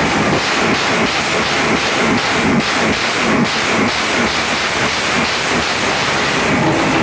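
A freshly rebuilt motorcycle engine running loud and rough, with a hissing exhaust note and an uneven pulsing beat about twice a second.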